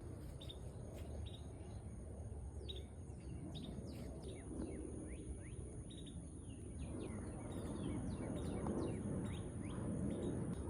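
Birds chirping outdoors in short, quick downward-sliding calls that repeat throughout, over a low rumble that grows louder after about seven seconds, and a faint steady high-pitched whine.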